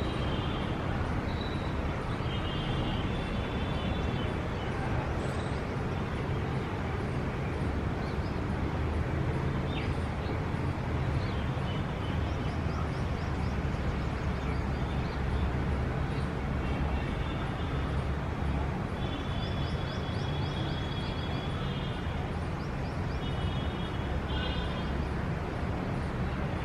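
Steady city traffic rumble and hum, with a bird calling over it in short runs of high chirps every few seconds.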